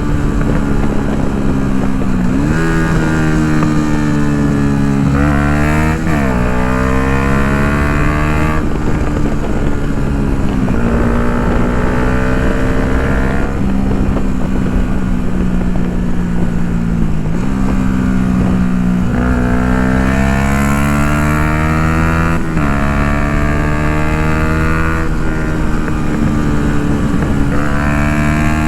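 Yamaha MT-125's single-cylinder four-stroke engine through an Akrapovic full exhaust while riding. The engine note climbs under throttle and drops sharply at each gear change, several times over.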